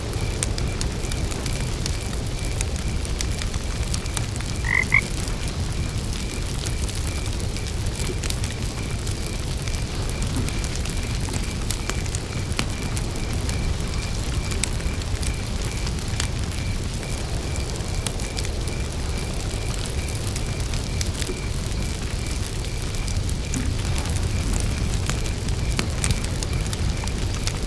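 A wood campfire burning with a low rumble and scattered crackles, under a steady string of cricket chirps. A single short frog croak sounds about five seconds in.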